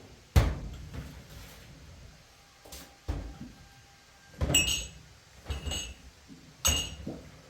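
Sharp knocks and thuds at irregular intervals, then three metallic clanks with a bright ringing note, about a second apart, in the second half.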